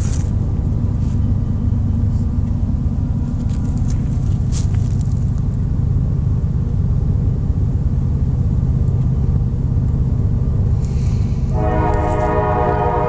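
Steady low rumble of an approaching diesel freight train led by an NS C44-9W (GE) locomotive. Near the end its air horn starts blowing, a loud held multi-note chord.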